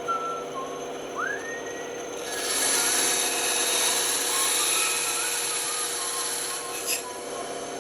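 Band saw running, its blade cutting through wood from about two seconds in until about seven seconds, a loud rasping hiss over the steady motor hum.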